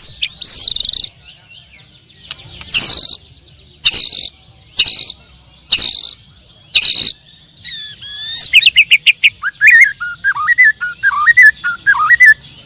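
Caged songbirds singing: a loud whistled note repeated five times about a second apart, then down-sweeping notes and a fast, varied warbling song in the second half.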